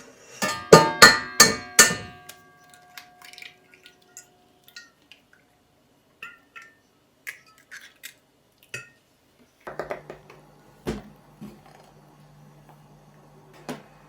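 Kitchenware clinking: a quick run of about five loud ringing clinks in the first two seconds, then scattered lighter taps and small clinks. About ten seconds in, a faint steady hum starts under more clatter.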